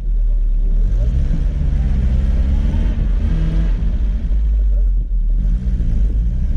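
Daihatsu Feroza's four-cylinder engine pulling under load through deep snow, its note rising and falling with the throttle over a heavy low rumble.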